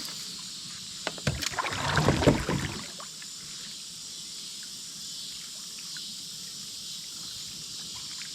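Water splashing and sloshing for about a second and a half, starting about a second in, from someone wading through creek water, over a steady high insect drone.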